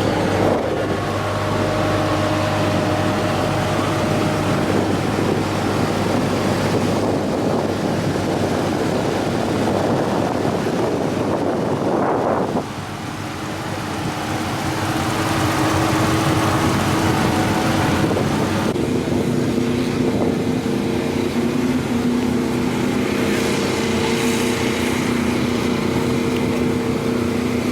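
Car engine running steadily with road and wind noise. Its hum shifts to a new pitch about twelve seconds in and again shortly after eighteen seconds.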